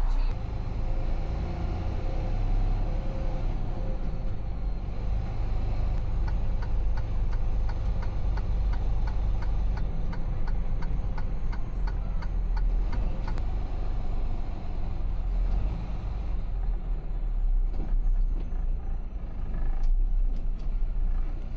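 Semi-truck engine running, a steady low rumble heard from inside the cab, with a run of evenly spaced clicks through the middle.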